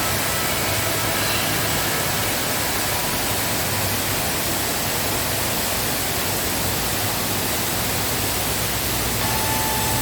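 Waterfall in heavy rainy-season flow: a steady rush of falling water.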